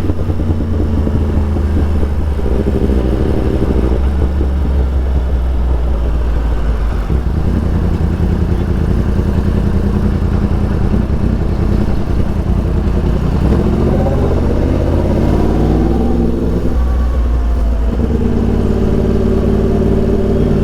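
Yamaha R1 sportbike's inline-four engine running while riding, its note shifting with throttle and gear changes and rising in pitch about two-thirds of the way through.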